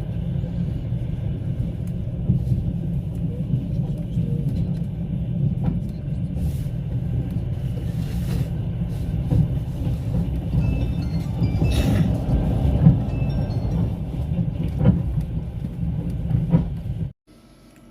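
Passenger train running along the line, heard from inside the carriage: a steady low rumble of wheels and car body, with a few short knocks from the track.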